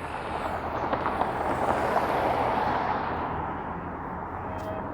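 A vehicle passing by on the street: tyre and road noise that swells to a peak about two seconds in, then fades.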